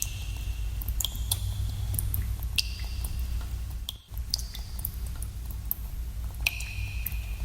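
Water drops falling into a pool in a cave: about six separate plinks, each ringing briefly at its own pitch, with echo, over a steady low rumble of cave ambience.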